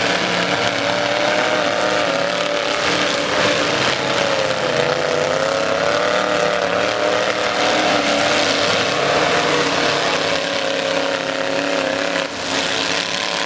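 Demolition derby truck engines running hard at high revs, the pitch wavering up and down as they accelerate and back off.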